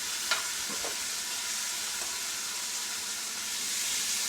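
A pan of chicken livers with onions and mushrooms sizzling steadily in butter and stock, with one short sharp tap about a third of a second in.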